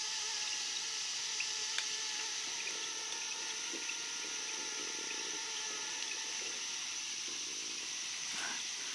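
Swamp ambience: a constant high-pitched insect drone with fainter steady trilling underneath, and soft sloshing of feet wading through shallow floodwater.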